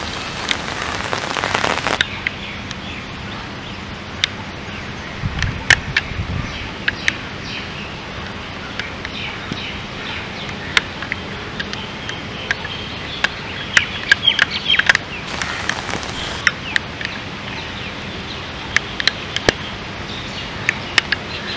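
Steady rain falling, with scattered sharp taps of drops striking close by and birds chirping, most busily in the middle stretch. A brief low rumble about five seconds in.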